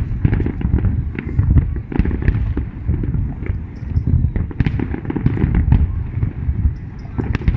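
Many fireworks bursting at once in a continuous barrage: a dense rumble of overlapping deep booms, with sharper cracks and pops scattered through it.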